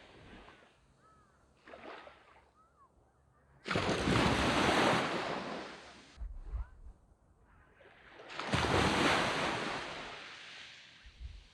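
Sea waves breaking on a sand beach. One wave crashes suddenly about four seconds in and washes out, and a second swells up and breaks near nine seconds before fading, with quiet lulls between them.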